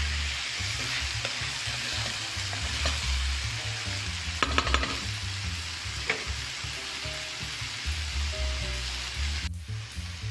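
Carrots, corn and corned beef sizzling steadily as they fry in a pan, with a short run of clicks about four and a half seconds in. The sizzle drops away near the end.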